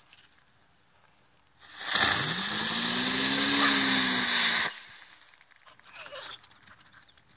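Small spinning firework burning for about three seconds: a loud hiss with a whining tone that rises and then falls, starting and cutting off suddenly.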